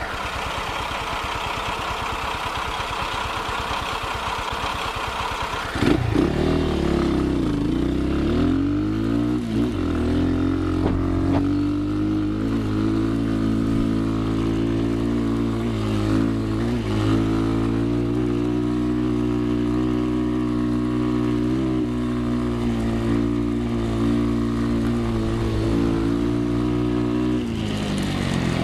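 Trail motorcycle engine. It chugs along at low revs, then about six seconds in it gets louder under more throttle. The pitch dips and climbs a couple of times, then holds a steady drone and falls away near the end as the revs drop.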